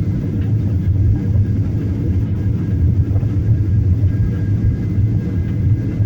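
Airliner engines and airframe making a steady low rumble as the plane begins its takeoff, with a faint thin whine above it.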